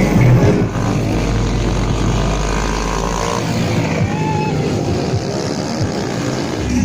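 Motorcycle engines running, a dense steady mix of engine noise.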